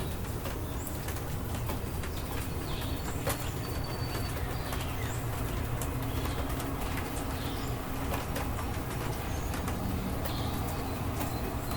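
Steady rain with scattered drops and drips ticking, under a low rumble, while birds call now and then, including short high chirps.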